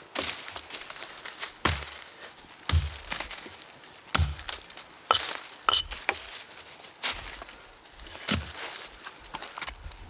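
Wood being chopped and cracked by hand: irregular sharp knocks with low thuds, about one every second or so, among smaller cracking and crunching noises.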